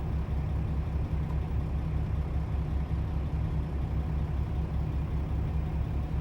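Diesel engine of a semi truck, a 2015 Kenworth T680, idling with a steady low rumble that pulses evenly.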